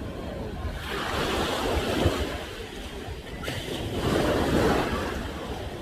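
Ocean waves breaking on the shore at high tide, surging twice, about a second in and again about four seconds in, with wind buffeting the microphone underneath.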